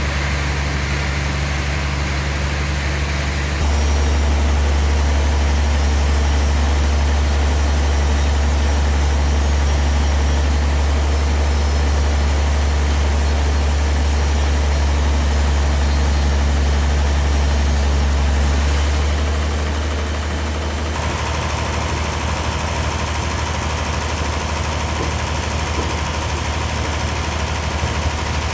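A heavy engine running steadily with a deep hum. It gets louder a few seconds in and drops back about two-thirds of the way through, when a thin steady whine joins it.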